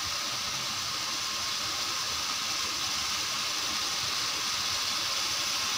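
Boneless chicken in a tomato-garlic masala sizzling steadily as it is sautéed (bhuna) in an aluminium pot.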